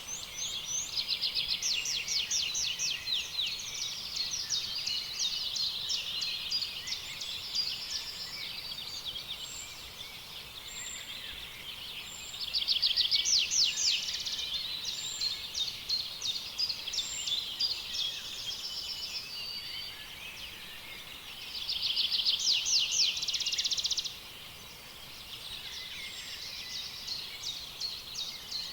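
A chorus of small songbirds chirping and trilling without a break. Louder, very rapid trills come in a little before halfway and again toward the end.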